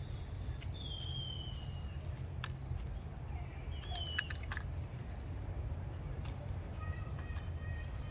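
Outdoor ambience of insects chirping in a fine steady pulse over a low rumble, with two short falling bird whistles about a second and four seconds in and a few sharp clicks.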